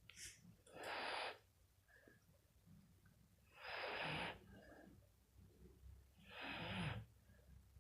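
Dog snoring: three noisy, snorting breaths, each about half a second long and roughly three seconds apart, the last two ending in a low rattle.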